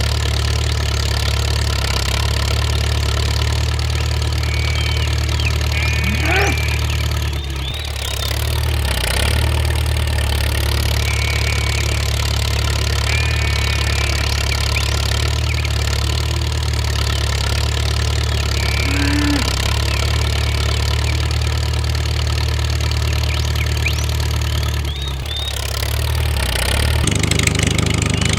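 An engine idling steadily with an even low hum that dips briefly twice, with faint short high chirps over it.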